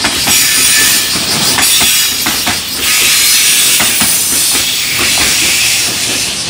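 Freight train's container wagons rolling past at close range: a loud, steady rush of wheels on rail, broken by irregular clacks as the wheels cross rail joints.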